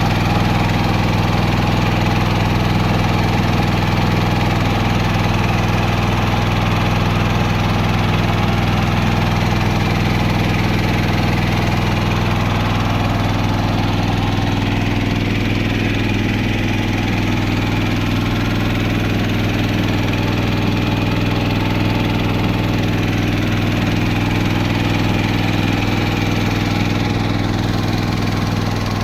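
Small boat engine running steadily at a constant speed, its note shifting slightly about halfway through.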